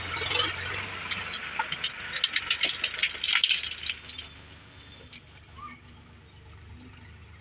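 A machine's engine running with a steady low hum, then for about two seconds a clatter of sharp rattling knocks, after which it goes quieter.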